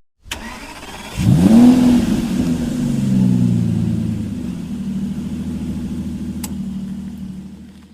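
Vehicle engine revving up about a second in, then running steadily and fading out near the end.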